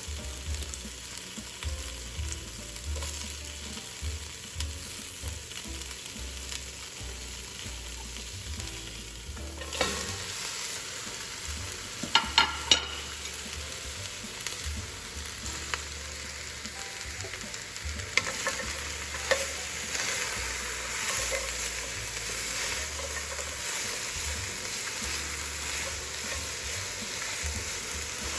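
Garlic and vegetables sizzling in a hot pan while being stirred, the sizzle growing louder partway through. A few sharp knocks of a utensil against the pan sound about twelve seconds in.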